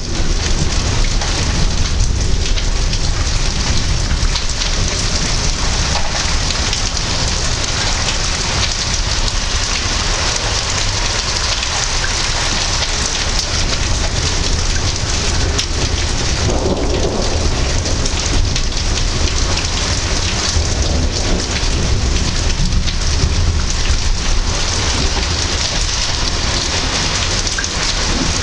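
Heavy rain falling steadily in a thunderstorm, with low rumbling thunder underneath.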